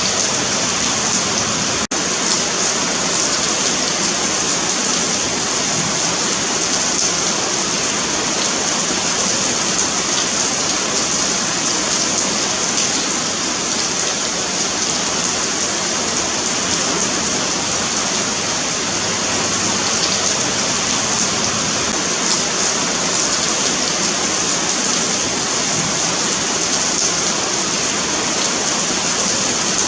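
Steady rain falling on a paved sidewalk: a dense, even hiss of drops, brightest in the high range, with a split-second dropout about two seconds in.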